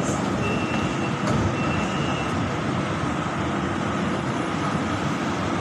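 BTS Skytrain electric train running, heard from inside the car: a steady rumble of the wheels on the rails with a faint steady whine.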